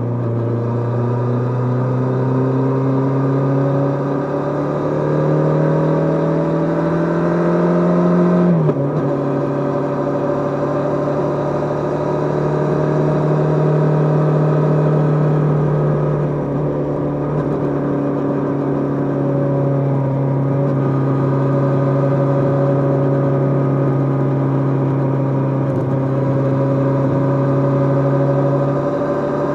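Kawasaki GPZ550's air-cooled inline-four engine under way: revs climb steadily under acceleration, drop sharply with an upshift about nine seconds in, then hold fairly steady as the bike cruises.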